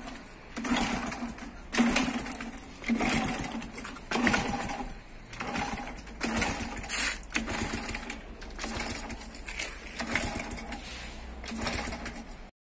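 Old motorcycle engine being kicked over again and again, about once a second. Each kick spins it briefly and it does not catch and run.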